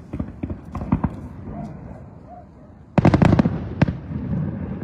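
Aerial fireworks shells bursting: scattered bangs and crackles, then a rapid volley of loud bangs about three seconds in, followed by a single bang.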